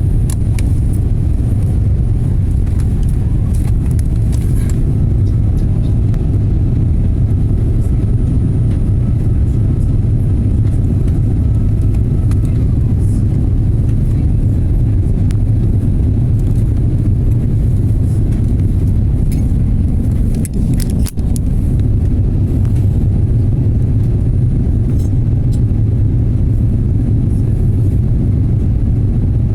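Steady cabin noise of an airliner in flight: a loud, even rumble of engines and airflow heard from inside the passenger cabin, with a few faint clicks and a brief dip in the noise about two-thirds of the way through.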